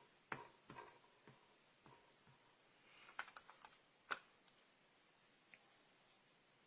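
Faint taps and clicks of rubber-stamping by hand: an ink pad dabbed onto a stamp and the stamp handled on the desk, a string of small knocks over the first few seconds with one sharper tap about four seconds in, then near silence.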